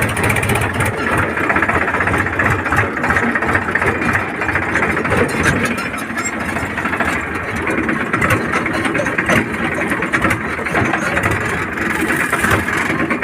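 Powertrac tractor's diesel engine running steadily.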